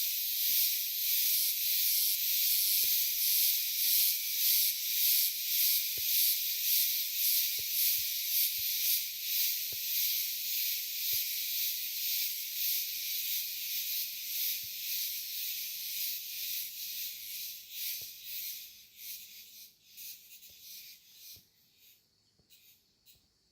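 Cicadas singing: a dense, high-pitched buzz that pulses in slow waves and fades away near the end.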